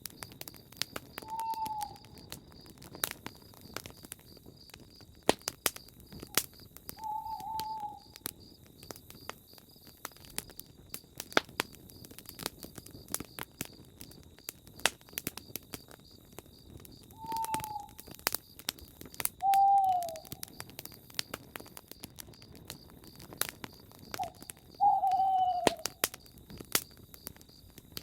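Campfire crackling with frequent sharp pops, while an owl hoots five times at irregular intervals, short single calls that fall slightly in pitch, the last the loudest. A steady high faint trill runs underneath.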